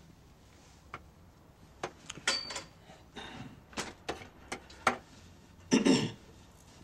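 Irregular light knocks and clicks, with one louder, longer clatter near the end.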